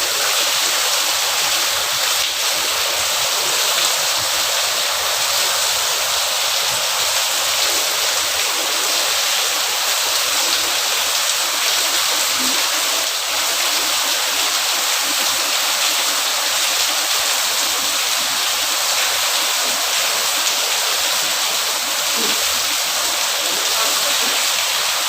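Heavy tropical downpour: a loud, steady hiss of dense rainfall.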